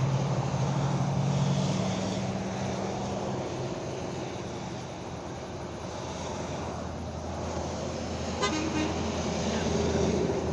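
Car driving along a road, heard from inside the cabin as steady engine and road noise. A low steady hum sits over the first few seconds and fades out.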